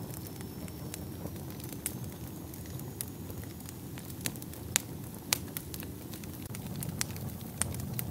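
Wood fire burning in a fireplace: a low steady rumble of flames with irregular sharp crackles and pops, two of them louder a little past the middle.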